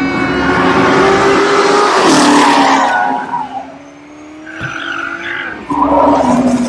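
Car engine revving, its pitch climbing for about two seconds and then dropping, over a loud hiss of tyre noise. A second burst of engine and tyre squeal comes near the end.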